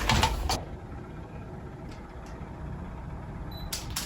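Low steady rumble of room noise, with a couple of faint ticks and then a quick cluster of sharp clicks just before the end.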